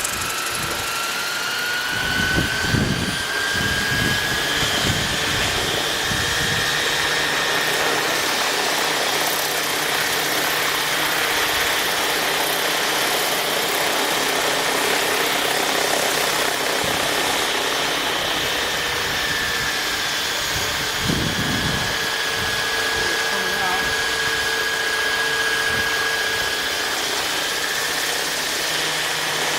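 Align Trekker 800 electric RC helicopter running, its KDE motor and rotors giving a steady high whine that rises in pitch over the first few seconds and dips briefly later on. Strong wind rumbles and buffets the microphone, hardest a few seconds in and again about two-thirds through.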